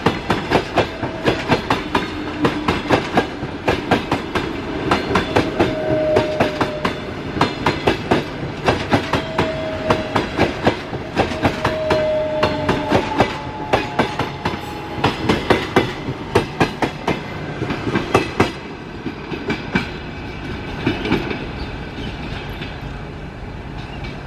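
A passing train, its wheels clattering over rail joints in a fast, steady run of clicks, with a few brief squeals in the middle. The clatter stops about three-quarters of the way through, leaving a quieter rumble.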